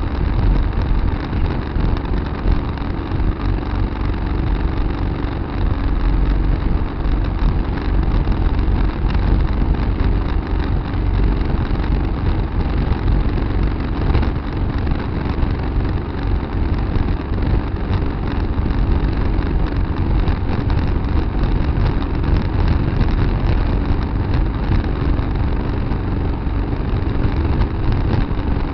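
Tractor engine running steadily under load, heard close up from a dash-mounted camera.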